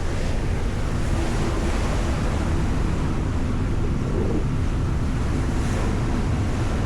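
Steady low drone of a ferry's engines, with wind rushing over the microphone.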